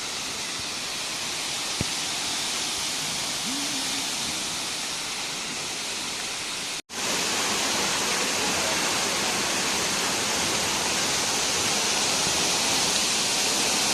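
Waterfall plunging into a pool, a steady rushing roar of falling water. It breaks off for an instant about halfway through and comes back a little louder.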